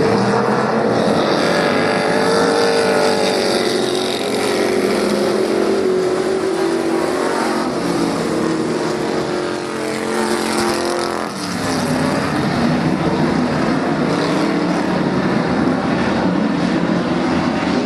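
Several stock car V8 engines racing around a dirt oval, their pitch rising and falling as they accelerate down the straights and lift into the turns, with a lull about 11 seconds in.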